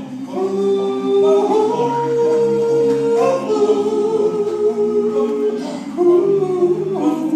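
Unaccompanied vocal group singing long held chords in close harmony. The top voice steps up in pitch about a second and a half in, drops back a little past three seconds, and shifts again around six seconds.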